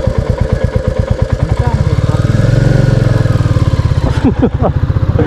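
Royal Enfield Classic 350's single-cylinder engine running under way with an even, rapid thump, pulling harder and louder about two seconds in.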